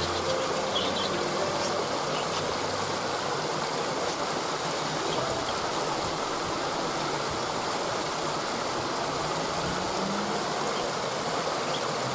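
Waterfall: a steady, even rush of falling water, with a few faint bird chirps about a second in.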